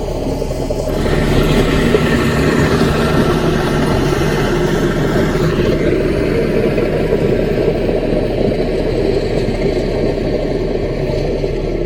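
Small bulldozer's diesel engine running steadily as the machine works. It gets louder and harsher about a second in and eases back around six seconds in.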